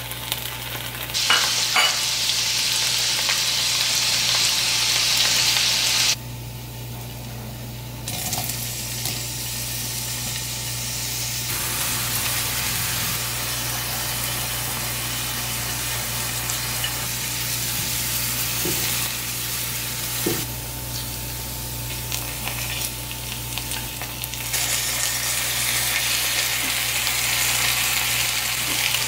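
Oil sizzling in a frying pan as chicken drumsticks and then chopped onion, ginger and garlic fry. The sizzle drops and swells abruptly several times, with a few faint ticks, and a steady low hum lies under it.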